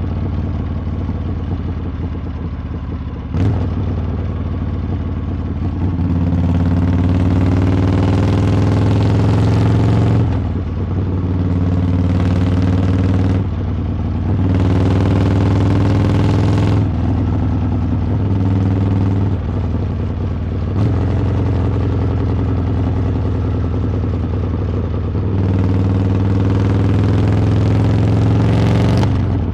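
Harley-Davidson V-twin engine and exhaust under way, the throttle opened and rolled off again four times, each pull louder and brighter than the cruising sound between. A single sharp click a few seconds in.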